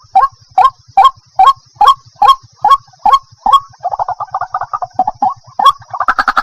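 Waterhen calling: a regular series of short, harsh notes about two a second, breaking about three and a half seconds in into a faster run of chattering notes. A thin steady high tone runs underneath.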